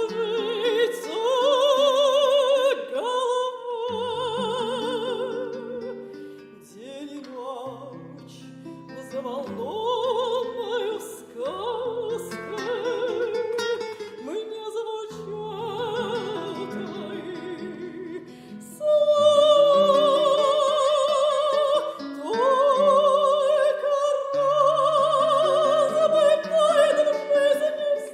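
Female classical singer in operatic style, with strong vibrato and long held high notes, over piano accompaniment; the voice swells loudest on sustained notes in the second half.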